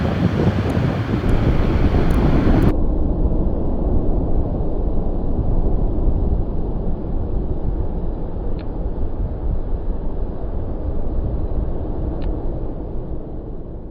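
Avro RJ100's four turbofan engines rumbling as the jet climbs away after take-off, with wind buffeting the microphone. The rumble slowly fades, and the high hiss drops out abruptly about three seconds in.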